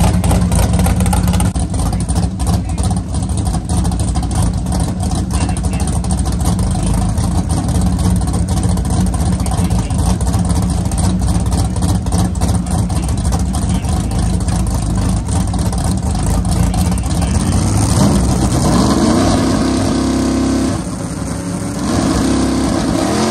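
Drag car engine running loud and steady with a rapid crackle, then revving up with a rising pitch. The pitch drops suddenly, as at a gear change, and climbs again near the end.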